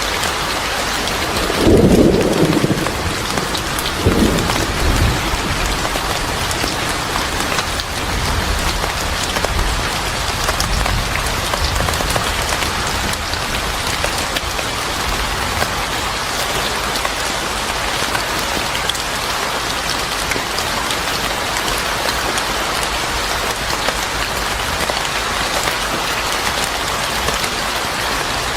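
Steady heavy rain pouring, with a thunderclap about two seconds in, a second one a couple of seconds later, and low thunder rumbling that fades over the next several seconds.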